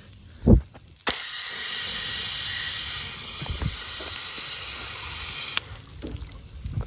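A short low thump, then about a second in a garden hose starts spraying water onto the overheated, seized Honda GCP160 mower engine. The water hisses and steams steadily on the hot metal, then cuts off suddenly a little over a second before the end.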